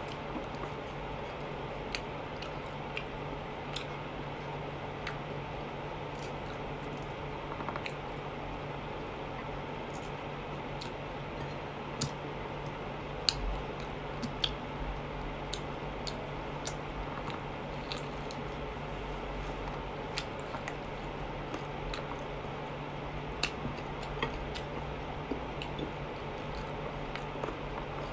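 Close-up eating sounds of fried chicken eaten by hand: wet chewing, squishing and lip-smacking, with scattered sharp clicks and crunches, the loudest about halfway through. A steady low hum runs underneath.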